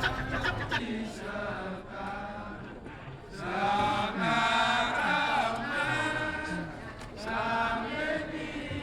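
Kecak chant: a chorus of male voices chanting, with rapid clipped rhythmic calls in the first moment giving way to long held sung notes, loudest from about three and a half seconds in.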